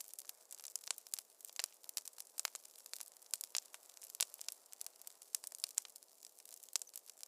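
Wood fire crackling: frequent sharp, irregular pops and snaps over a faint hiss.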